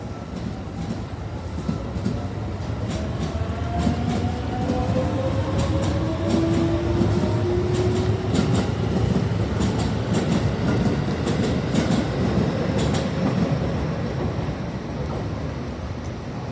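Hankyu electric train running on the rails: a low rumble with scattered sharp wheel clicks and a faint motor whine that rises slowly in pitch, growing loudest in the middle and then easing off.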